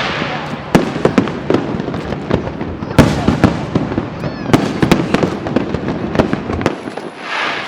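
Fireworks display: shells bursting in rapid, irregular bangs and crackles, with a hissing rush near the start and again near the end. The loudest bang comes about three seconds in.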